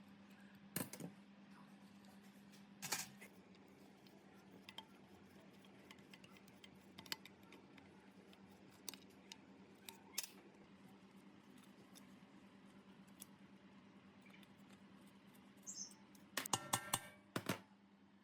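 Light clicks and taps of tools and parts being handled in a workshop, scattered over a faint steady hum. A quick run of sharper, louder clicks comes near the end.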